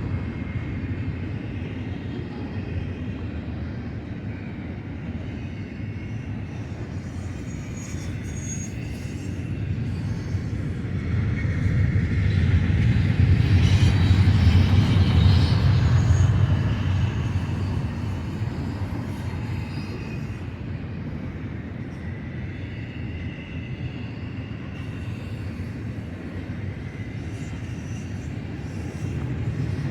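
Double-stack intermodal freight train rolling past: a steady rumble of steel wheels on rail that swells louder about halfway through, then eases. Faint high-pitched wheel squeal rides over it.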